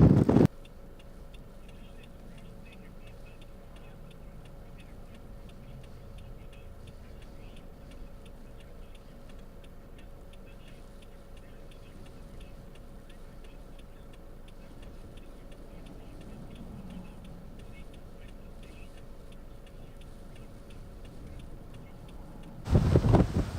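Quiet, steady, evenly repeated ticking over a faint hum.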